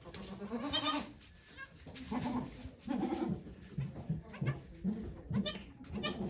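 Goats bleating: a string of short, wavering calls.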